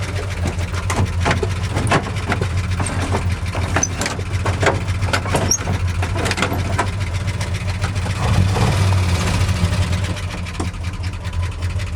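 1976 Ford F-250's 390 FE V8 idling steadily, with scattered sharp clicks and knocks over it and a brief swell in engine sound about eight seconds in.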